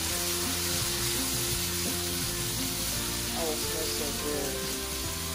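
Onion, smoked pork and minced garlic frying in a stainless steel skillet with a steady sizzle while they are stirred with tongs.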